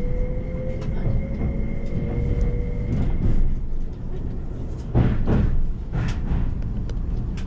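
Tobu Spacia X electric train running, heard inside the passenger car: a steady low rumble with a faint whine that rises slightly in pitch and fades out about halfway through. A few louder knocks and rattles come about five to six seconds in.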